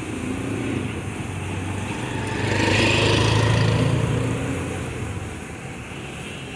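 A motor vehicle passes by: its engine and tyre noise swells, peaks and fades over a few seconds in the middle, above a steady background rumble.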